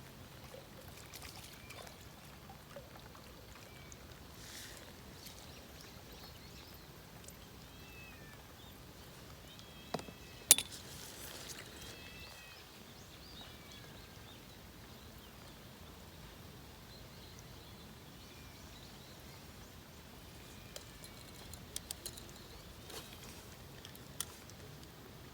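Faint outdoor ambience with a few short, high chirps scattered through it. A sharp click about ten seconds in stands out as the loudest sound, and a few smaller clicks come near the end.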